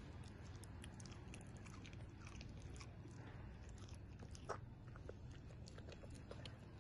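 A dog chewing and crunching raw produce, a run of quick, crisp crunches with one sharper crunch about four and a half seconds in.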